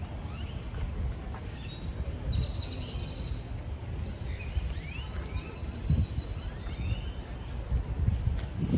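Birds chirping, many short rising calls, over a steady low rumble of outdoor background noise.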